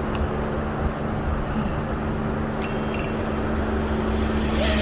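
Steady low engine rumble with a faint hum, a short high-pitched beep about two and a half seconds in, and a hiss rising near the end.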